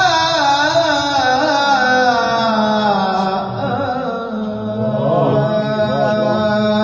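A Quran reciter's voice chanting in maqam Kurd, drawing out one long ornamented vowel on 'wa-la' with a wavering melody that settles lower about halfway through.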